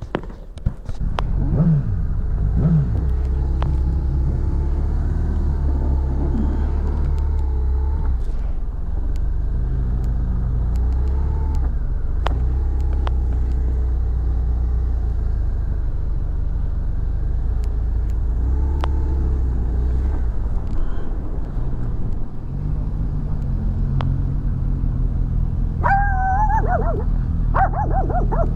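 Motorcycle engine revving up and pulling away, then running steadily with a constant low rumble of engine and road noise. Near the end a dog gives a few short high calls.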